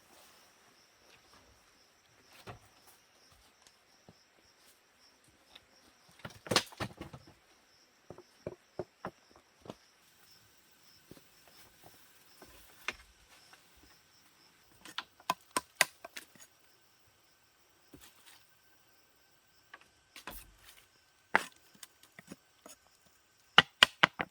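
Wood being worked by hand: sharp knocks and cracks in irregular clusters, the loudest about six seconds in and just before the end. Insects drone steadily behind them.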